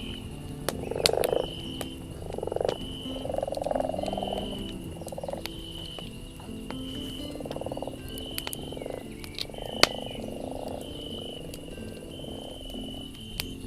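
Campfire crackling, with a few sharp pops, over night forest ambience. Short rattling animal calls come every second or two, and a brief high chirp repeats about once a second.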